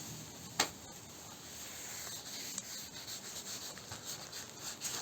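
Hand rubbing strokes over a car door panel, a rag or sanding paper worked back and forth several times a second. A single sharp click about half a second in.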